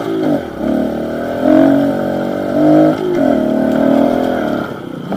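Pit bike's small motorcycle engine running under throttle while riding. The note holds steady, with the revs dropping shortly after the start and changing again about three seconds in.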